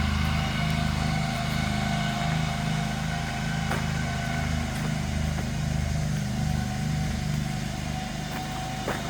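Mowing machine's engine running steadily: a low drone that pulses slightly, with a faint higher whine over it.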